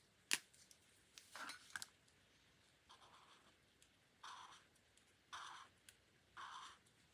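Paper and stationery being handled on a desk during journal decorating: a sharp click near the start, then short scratchy strokes, the last three about a second apart.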